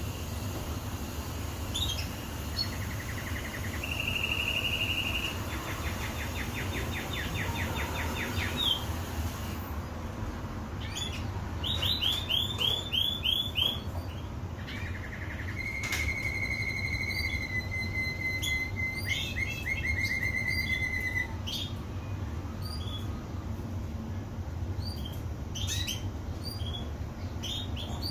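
Domestic canary singing in a string of trilled phrases, each a fast run of the same note repeated at one pitch, with sparser short chirps near the end. A steady low rumble runs underneath.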